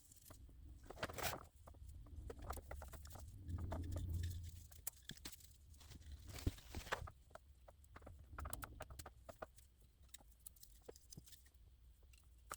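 Faint rustling and scattered small clicks of hands handling a doll's dried, curled hair, with a soft low thump about four seconds in.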